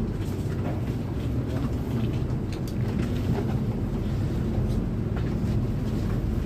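Bus engine running with a steady low rumble, with a few faint ticks and knocks over it.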